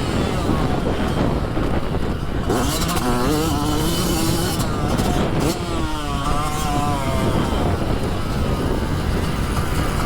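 Dirt bike engine being ridden on a motocross track, its pitch rising and falling repeatedly as the throttle is opened and closed through the corners and gears.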